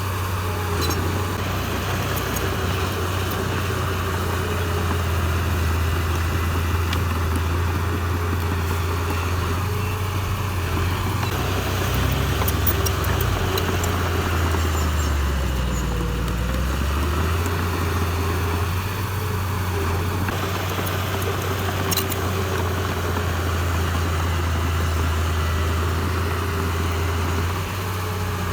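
Heavy-equipment diesel engine running steadily; about halfway through its pitch sags for a couple of seconds, then picks back up.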